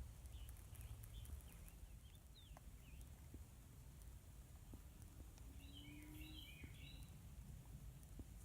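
Near silence with faint, scattered short bird chirps and a quick cluster of them about six seconds in, over a low rumble.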